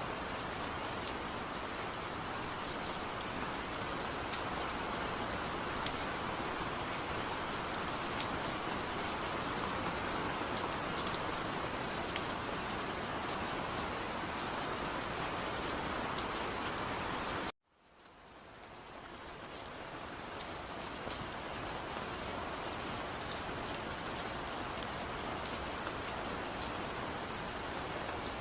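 Steady rain with scattered drop ticks. About two-thirds of the way through, the sound cuts out suddenly and fades back in over a few seconds.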